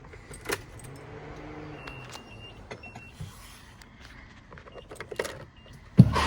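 Keys rattling and small clicks, with a few short high dashboard beeps, then the Iveco Daily's 2.3-litre diesel engine starts suddenly near the end and keeps running.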